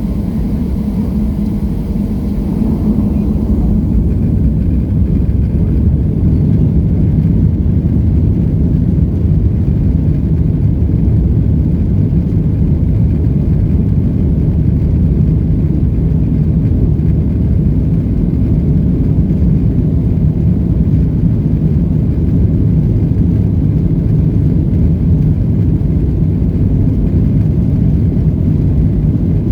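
Inside the cabin of a Boeing 737-700 during takeoff, the CFM56-7B turbofan engines make a steady low rumble at high thrust. The sound grows louder about three seconds in and then holds.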